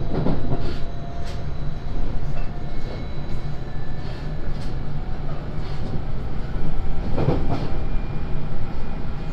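JR Shikoku 5000 series electric train running at speed, heard from inside the passenger car: a steady rolling rumble with faint whining tones from the Toshiba IGBT VVVF inverter drive. Wheels clatter over rail joints just after the start and again about seven seconds in.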